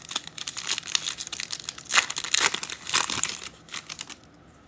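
Foil card pack being torn open and crinkled by hand, a run of irregular crackles and rips that dies down near the end.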